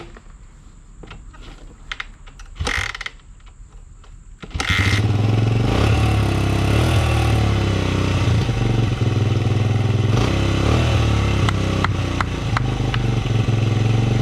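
A dirt bike engine, its carburetor freshly cleaned, is started cold on choke. After a few short knocks it catches about four and a half seconds in and then runs steadily.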